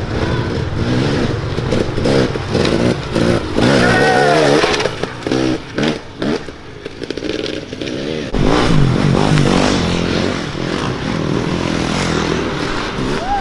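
Dirt bike engines revving as race bikes pass, the pitch climbing and falling with each twist of the throttle. The sound drops back for a few seconds in the middle, then a louder bike comes through about eight seconds in.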